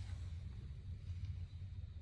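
Steady low rumble of a running vehicle, with a faint thin high tone above it.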